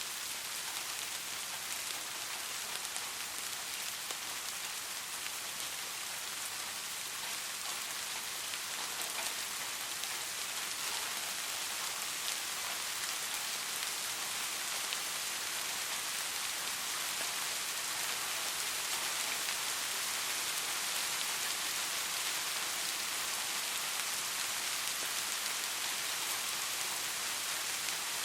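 Steady light rain falling, a soft even hiss of many small drops with faint individual patters.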